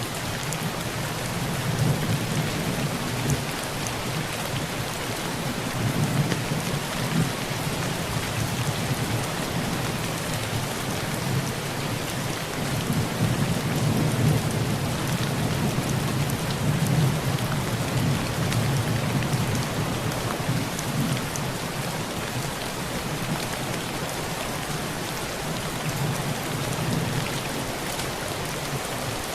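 Heavy rain falling steadily on a tin roof, with thunder rumbling low in several rolling swells, the longest about halfway through.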